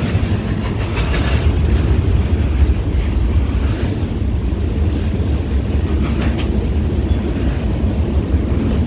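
Freight train cars rolling past directly below, a steady low rumble with a few faint clicks from the wheels on the rails.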